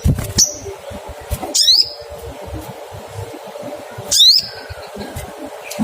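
Olive-backed sunbird giving its sharp, high "cuit cuit" call: two quick runs of sweeping chirps about one and a half and four seconds in, with a short high note near the start.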